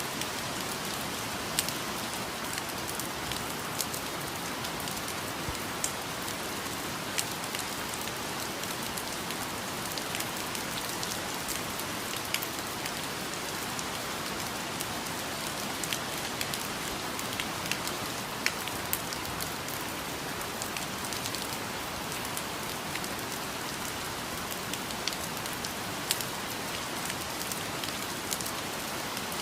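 Steady rain falling, an even hiss with many single drops landing close by as scattered sharp taps.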